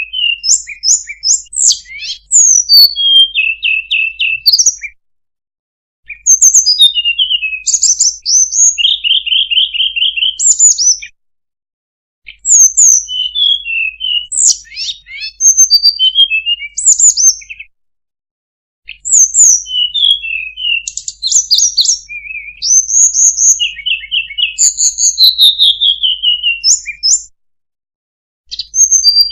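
Sulingan (tledekan) songbird singing a lure call: fast, high chirps, short trills and quick downslurred notes in bursts of about five seconds, each broken by a second or so of silence.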